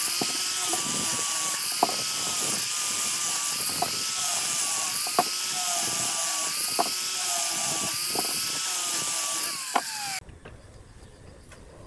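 Electric power tool running with a steady high motor whine whose pitch dips slightly now and then, with sharp knocks about every second or so. About ten seconds in, the whine drops in pitch and the sound cuts off suddenly.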